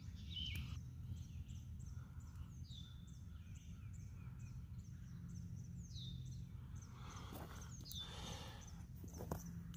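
Songbird singing a rapid run of short, falling chirps, about three a second, over a faint steady low rumble of outdoor background noise; a few soft rustles near the end.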